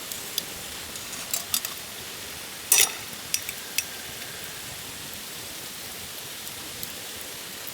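Food sizzling steadily in a hot pan, with a few sharp clicks of utensils against it, the loudest just under three seconds in.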